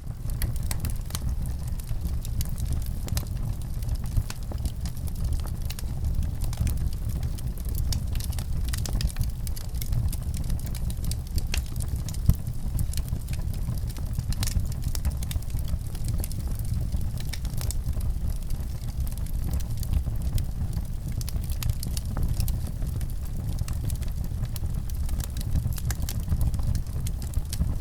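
Wood fire crackling in a fireplace: a steady low rumble of flames with frequent sharp pops and crackles, one louder pop about twelve seconds in.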